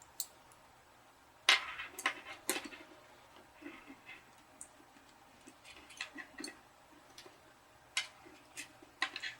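Scattered light clicks and taps of a small model locomotive and its parts being handled and set down on a workbench, at irregular intervals. The loudest comes about a second and a half in.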